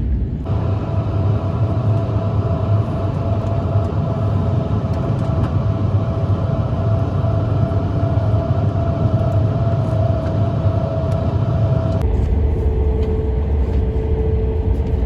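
Train in motion: a steady rumble with a constant whine over it. About 12 s in the sound cuts to another stretch where the whine is lower.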